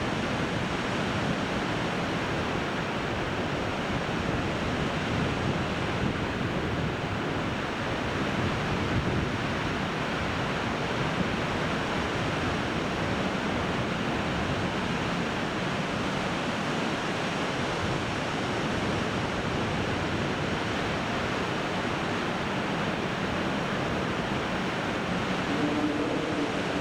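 Strong wind blowing over the microphone: a steady rushing noise with no distinct events.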